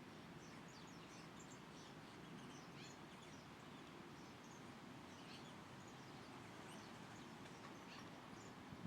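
Birds chirping faintly: many short, high chirps scattered throughout, over steady low background noise.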